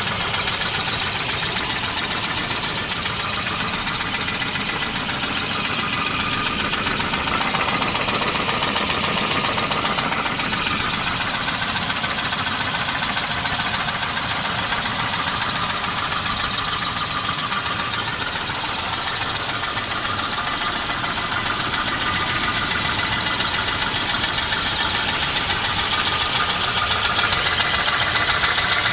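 1988 Volvo 240 GL engine running steadily with a rapid knocking, which the owner takes for most likely piston slap.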